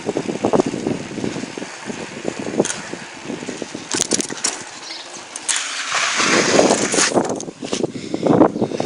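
Bicycle tyre skidding on the ground: a loud scraping hiss starting a little after five seconds in and lasting under two seconds. Before it, the bike rattles and knocks as it rolls.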